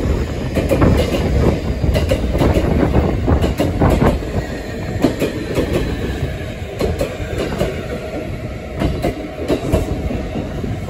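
JR Kyushu 811 series electric commuter train running in alongside the platform: a steady rumble of wheels on rail, with many sharp clacks as its wheels cross the rail joints.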